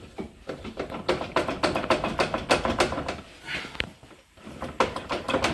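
Socket ratchet wrench clicking quickly as a bolt is undone, with a short metallic clink near the end.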